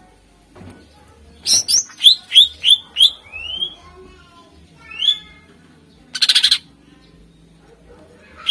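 Greater green leafbird (cucak ijo) singing: a quick run of loud, sharp whistled notes, each sweeping up then dropping, about three a second. A single note follows, then a short harsh buzzy rattle about six seconds in.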